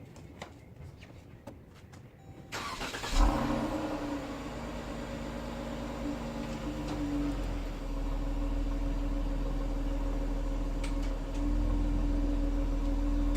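2014 Dodge Durango engine cranking and starting about two and a half seconds in, then idling steadily.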